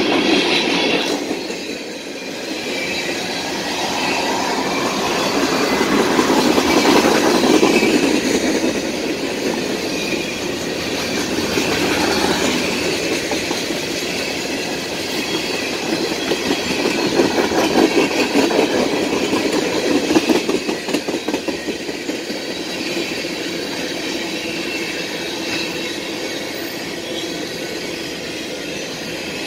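Freight train of tank cars rolling past at close range, its steel wheels clattering steadily over the rails.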